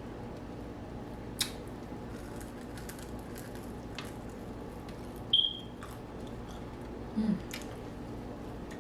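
Someone eating deep-fried catfish up close: soft wet chewing with a few sharp mouth clicks and smacks scattered through, over a steady low hum.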